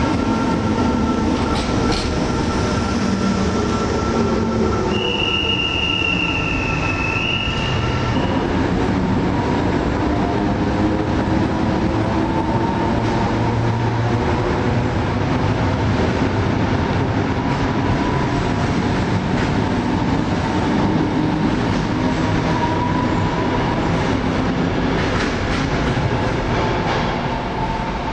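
NS SGMm Sprinter electric multiple unit pulling away along the platform, with steady rolling rumble of wheels on rail. A high wheel squeal sounds about five seconds in and lasts some three seconds. Train noise carries on steadily after the train has passed.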